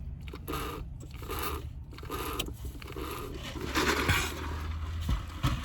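Irregular rustling and scraping of food packaging and items being handled, over a low steady hum.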